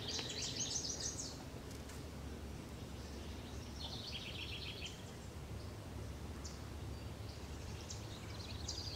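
A songbird singing short phrases of rapid repeated high notes, three times, over a steady low rumble.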